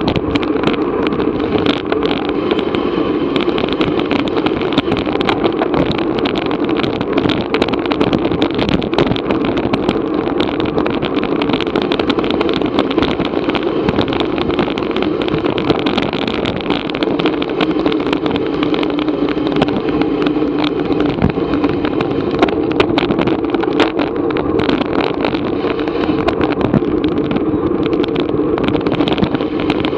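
Steady rushing wind and road noise on a moving action camera's microphone, with constant small rattles and clicks throughout.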